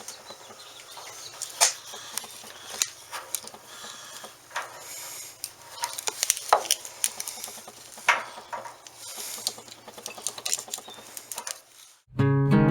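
Irregular metallic clicks, taps and scrapes of a brass propane regulator fitting being worked by hand on a tank valve. Acoustic guitar music starts abruptly near the end.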